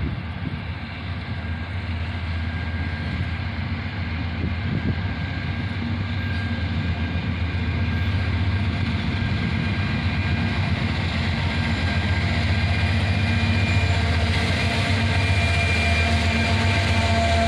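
Approaching freight train's GE diesel locomotives running, a steady low engine rumble that grows gradually louder.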